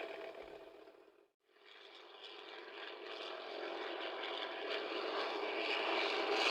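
Zero fighter's Nakajima Sakae 21 fourteen-cylinder radial engine running, on an old recording. The sound fades out to silence about a second in, then returns and grows steadily louder.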